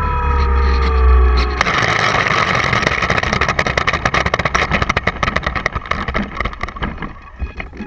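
Drone's motors and propellers whining with a low hum, the whine falling slowly in pitch, cut off abruptly about a second and a half in. A dense crackling rustle follows and fades away near the end.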